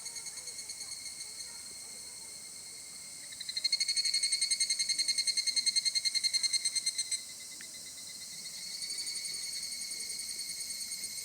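An animal's high-pitched pulsed trill, about seven pulses a second, growing loud from about three and a half seconds in and dropping back about seven seconds in, with a fainter trill going on before and after.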